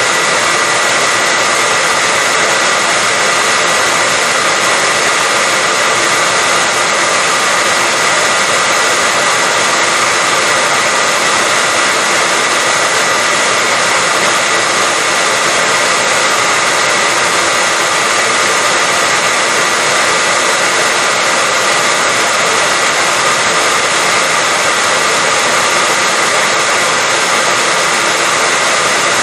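Hair dryer running steadily: a continuous loud blowing rush with a faint steady whine through it, unchanging throughout.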